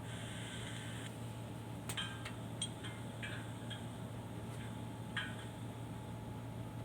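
A few faint, irregular clicks and taps over a steady low hum and hiss.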